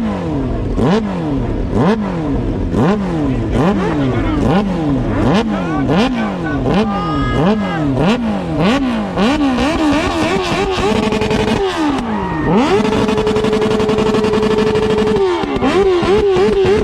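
Motorcycle engine revved in quick blips, about once a second, each time snapping up and falling back. After about ten seconds it is held at high revs with a wavering note, dropping once briefly.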